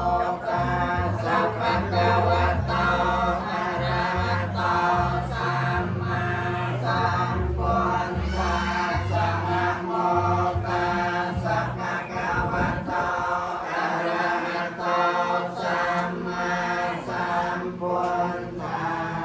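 Khmer Buddhist chanting by a group of voices in a steady, rhythmic recitation. A low bass accompaniment runs beneath it and drops out about two-thirds of the way through.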